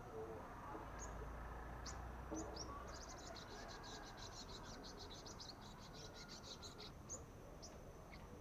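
Young sunbirds calling while practising song: thin high chips, then a rapid trill of about eight notes a second lasting some four seconds, then a few more chips.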